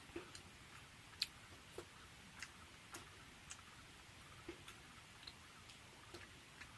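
Mouth chewing a soft, syrup-soaked rasgulla: a run of small wet clicks, about two a second and a little uneven, with one louder click about a second in.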